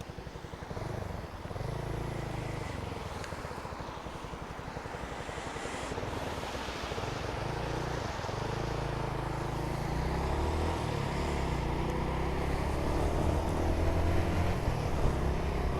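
Motorcycle engine running, its note shifting a few times and growing steadily louder toward the end.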